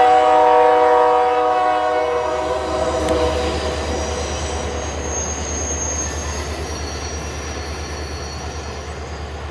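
Diesel locomotive horn sounding a chord that cuts off about two seconds in. Then a ballast train rolls past with a low rumble and a rhythmic clatter of wheels over rail joints, slowly fading, with a brief high squeal of wheels partway through.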